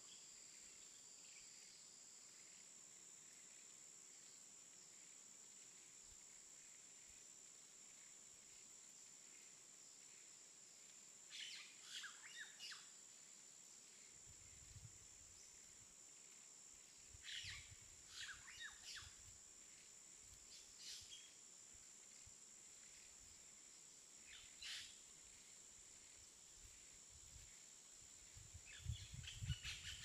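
Near silence in a snowy forest, with a faint steady hiss: a few short bursts of faint bird chirps come and go, and from about halfway on light wind gusts rumble on the microphone, strongest near the end.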